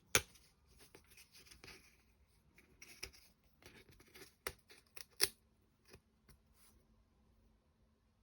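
Small laser-cut wooden clock parts being handled and pressed out of their thin plywood sheet: scattered sharp clicks and light scratching, with three louder clicks, at the start and twice about halfway through.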